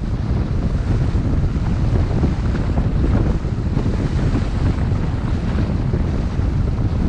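Wind buffeting the microphone, a steady low rumble with rough flutter.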